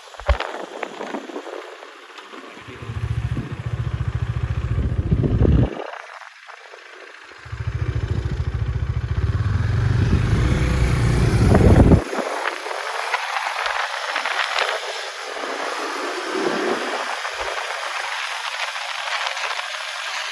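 Motorcycle engine running hard in two stretches, the second growing louder and then dropping away suddenly, with steady wind and road noise before, between and after.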